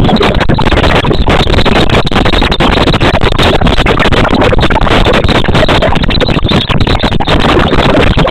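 Loud, steady rumbling noise with no clear pitch, flickering rapidly in level.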